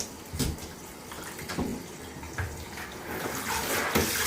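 Shower water running and splashing, with a few light knocks.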